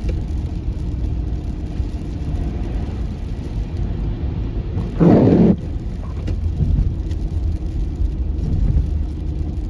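Car driving on a snowy highway, a steady low rumble of road and engine noise heard from inside the car. About five seconds in comes a brief, loud noisy burst lasting about half a second.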